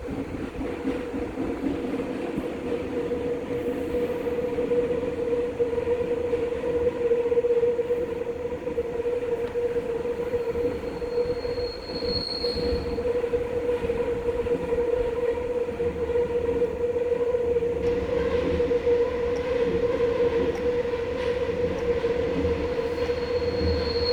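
A Busan Metro Line 1 subway train running between stations, heard from inside the car: a steady rumble of wheels on track with a constant motor hum. A high-pitched wheel squeal comes in briefly about halfway through and again near the end.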